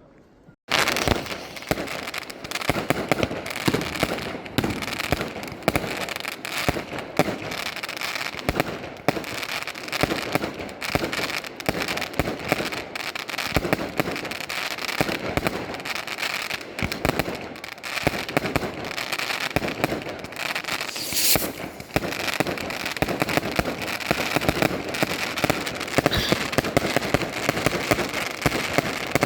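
Fireworks going off: a dense, unbroken run of rapid bangs and crackles that starts suddenly about a second in.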